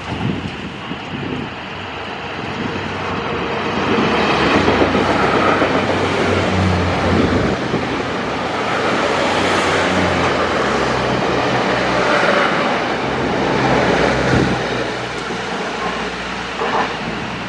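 A train running past on the line, with a low steady drone under the rushing rail noise. It grows louder about four seconds in, stays loud for about ten seconds, then fades a little.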